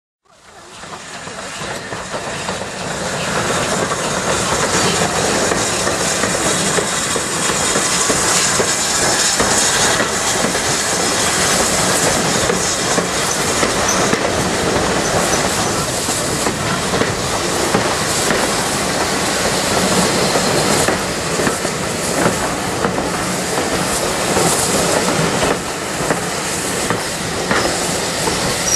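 Railway coaches rolling past, their steel wheels clacking over rail joints with some wheel squeal. The sound fades in over the first couple of seconds.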